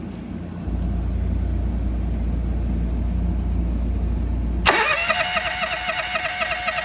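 Propane-fuelled engine of a National 5625 being cranked by its starter, a steady low hum for about four seconds. Near the end it catches with a quick rise in pitch and runs steadily.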